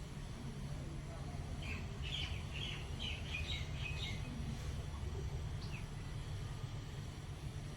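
A small bird giving a quick run of about eight chirps over roughly two and a half seconds, followed by a couple of single short down-slurred notes. A steady low rumble sits underneath.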